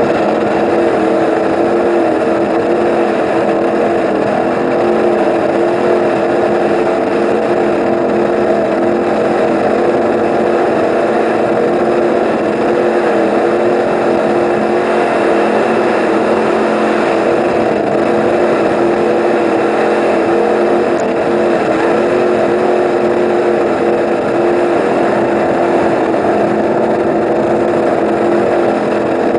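A 36-foot Eliminator powerboat's engines running loud and steady, their pitch wavering slightly without ever dropping off.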